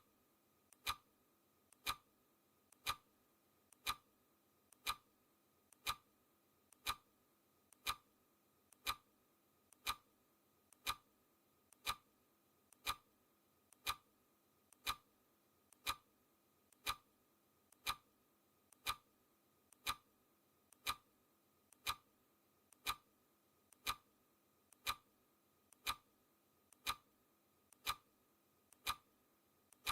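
Clock ticking sound effect marking the seconds of a countdown timer: one sharp tick each second, with a fainter tick in between.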